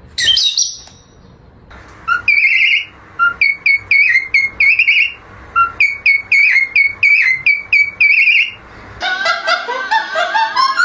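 A parrot whistling, with a sharp high call at the start, then two runs of quick, short, high notes, each run lasting about three seconds.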